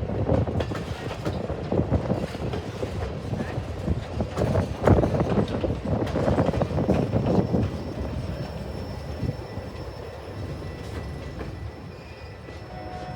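Train passing, its wheels clacking over the rail joints in quick, irregular clicks over a rumble. The sound fades away over the last few seconds.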